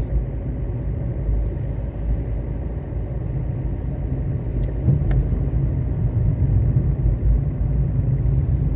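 Steady low rumble of a car heard from inside its cabin, with a faint click about five seconds in.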